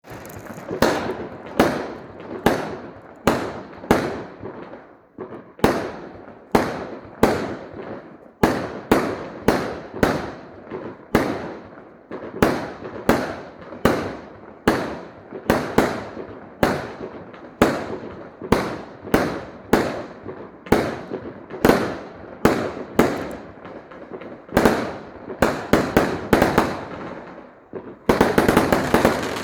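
Fireworks going off one after another, sharp bangs about one to two a second, each trailing off. Near the end they turn into a rapid volley of bangs.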